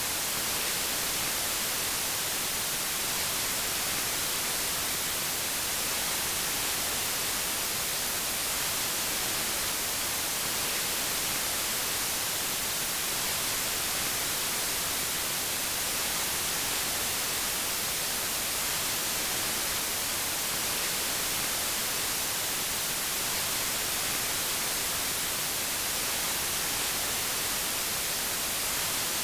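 Steady white noise: an even, unchanging hiss that is brightest in the treble.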